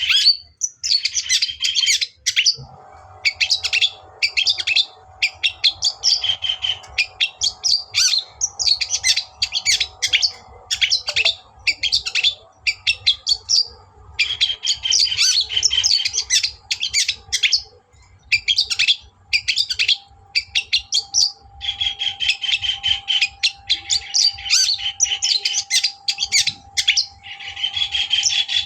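Long-tailed shrike (cendet) singing in fast, scratchy chattering phrases, one to two seconds each with short gaps between them, kept up throughout. A faint steady hum runs underneath from a few seconds in.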